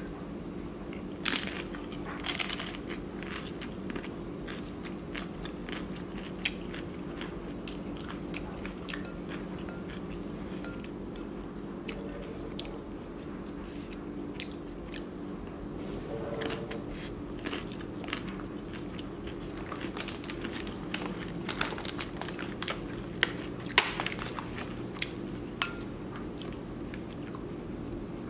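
Close-up chewing of a crisp corn tostada topped with crab and shrimp ceviche, with irregular sharp crunches. The loudest crunch comes about two seconds in, and another cluster comes near the end, over a steady low hum.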